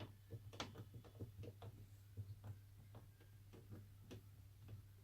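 Faint, irregular clicking, about three or four small clicks a second, over a low steady hum: the controls of a Hoover washer-dryer being worked while the machine stays dead and will not switch on.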